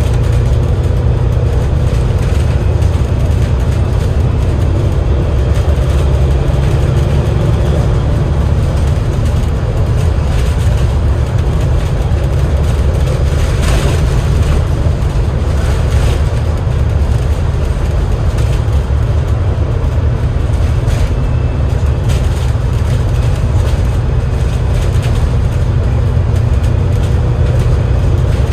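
Steady low rumble of a moving Enviro500 MMC double-decker bus, heard from on board: its Cummins L9 diesel engine running, with road noise. About halfway through there is one short rushing noise.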